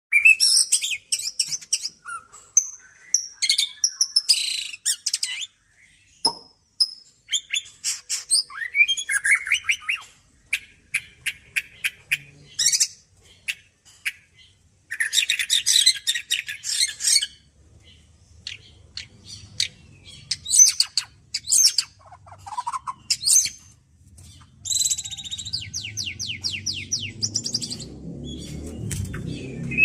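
White-rumped shama singing a fast, varied song of whistles, trills and rapid chattering runs in bursts with short pauses. A low rumble builds in the last few seconds.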